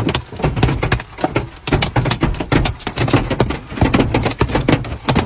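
Dense, irregular cracking and crackling, many sharp snaps a second over a low rumble.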